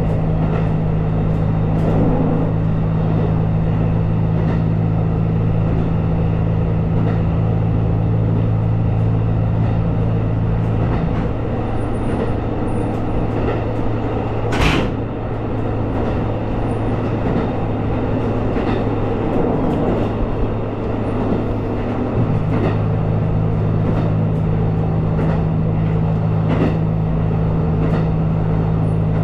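Inside a moving vehicle: a steady low engine hum that drops away for about ten seconds in the middle and then comes back, with faint ticks throughout and one sharp click about halfway through.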